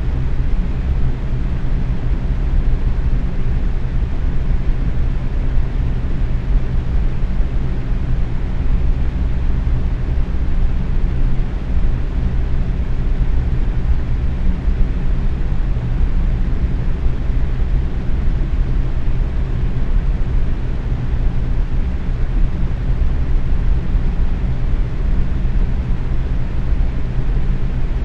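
Box fan running steadily at medium speed: a constant low whoosh of moving air with a faint hum.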